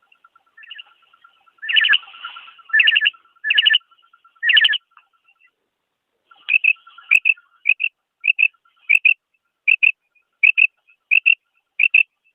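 Female common quail calling: four louder, drawn-out calls in the first few seconds, then a quick series of about ten short, sharp calls, roughly one and a half a second.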